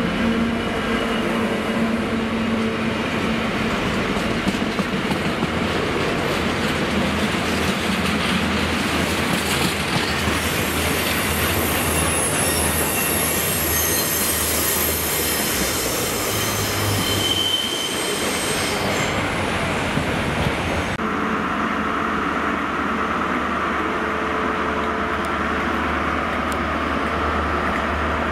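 DB Cargo Class 66 diesel locomotive, an EMD two-stroke, running close by, then a rake of empty flat freight wagons rolling past with wheels squealing and clattering. About three quarters of the way through, a steadier, even drone takes over.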